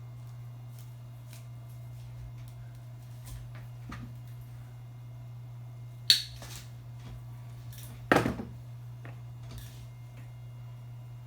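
Thick speaker cable being cut: light handling clicks, then two sharp snips of the cutters about two seconds apart, the second with a brief rattle. A steady low hum sits underneath.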